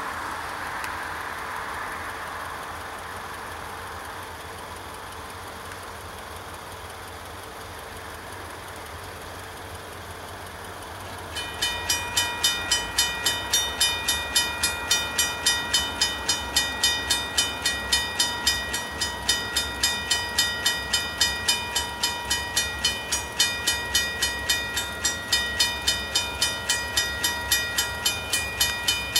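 Railroad grade-crossing bell starts ringing suddenly about eleven seconds in, a steady run of bright strokes at about two to three a second, as the crossing signals activate for an approaching train. Before that there is only a low, even background noise.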